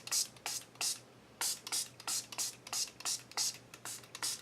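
Hand-pump spray bottle of brown India ink thinned with water, misted onto a paper craft tag in a quick series of short hissing spritzes, about three a second.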